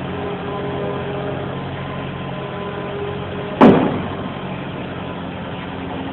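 Bobcat skid-steer loader engine running steadily, with one loud, sharp bang a little past halfway through.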